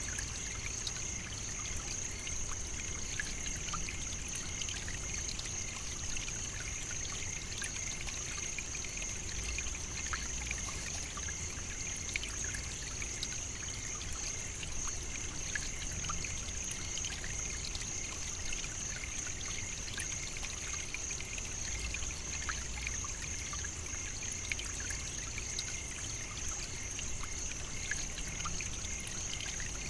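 African savannah ambience: a steady high-pitched insect chorus, with scattered faint ticks over a low rumble.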